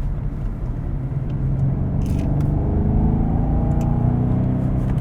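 BMW M850i's 4.4-litre twin-turbo V8 pulling under load through a corner, its pitch rising steadily from about two seconds in and easing slightly near the end.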